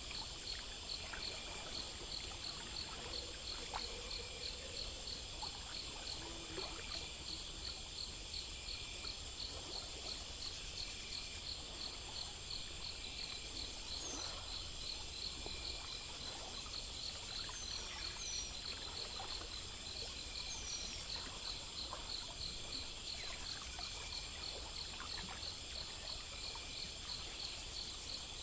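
Night insects, crickets among them, chirping in an even rhythm of about two chirps a second, layered with a steady high buzz and other pulsing insect calls. A few short falling chirps come now and then over a faint background hiss.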